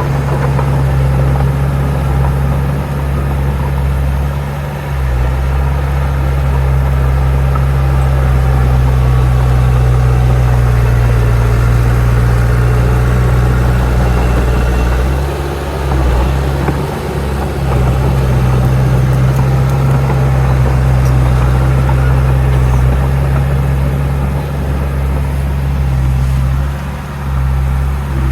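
Heavy diesel engine of earthmoving machinery running loud and steady with a deep low drone, easing off briefly a few times as the load changes.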